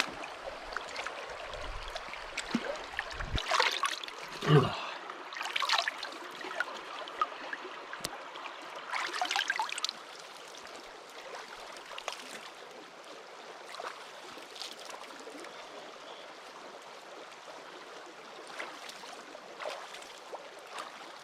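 River water flowing steadily, with splashing from washing in it during the first ten seconds or so, then only the flow.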